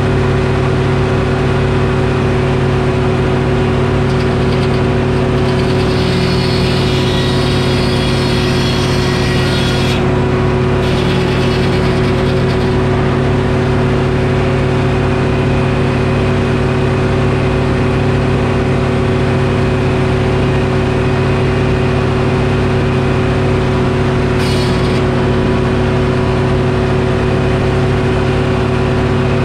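Detroit Diesel engine powering a Frick sawmill, running steadily at constant speed. A higher hiss joins it for several seconds, from about five seconds in, and briefly again near the end.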